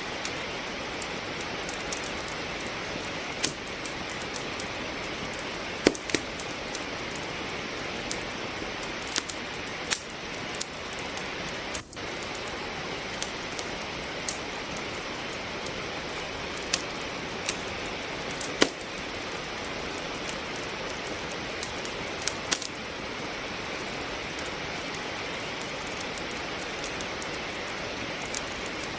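Steady rain hissing, with a wood fire crackling over it in scattered sharp pops at irregular intervals. The sound drops out for an instant about twelve seconds in.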